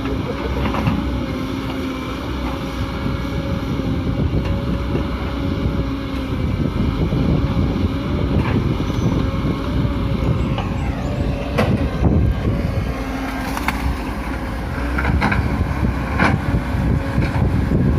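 Excavator's diesel engine running steadily with a constant whine, with a few sharp knocks in the second half.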